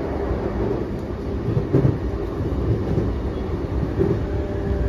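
Running sound inside a JR East E233-5000 series electric commuter train: a steady rumble of wheels on the rails with a single knock about two seconds in. Faint steady motor tones come in near the end as the train nears its next stop.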